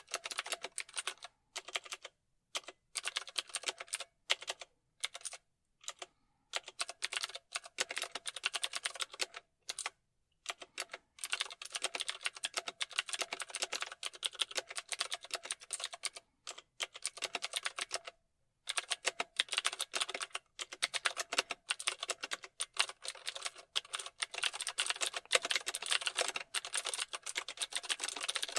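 Typing on a computer keyboard: fast runs of key clicks in bursts, with brief pauses between them, the longest about a third of the way in and again past the middle.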